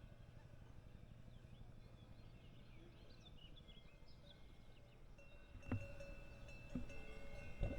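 Faint ringing of cowbells on grazing cows, several bells at different pitches, swelling about five seconds in, with three clanks near the end. Small birds chirp in the middle, over a low outdoor rumble.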